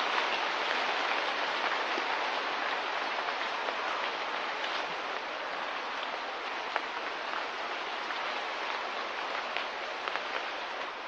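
Steady hiss of light rain, with a few sharper drop ticks scattered through it, slowly getting a little quieter.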